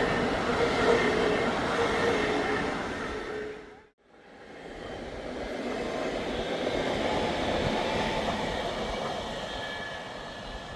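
A train passing on a railway viaduct: a steady rumble of wheels on rail with a faint steady whine, cutting off abruptly about four seconds in. Then train noise swells up again and slowly fades away.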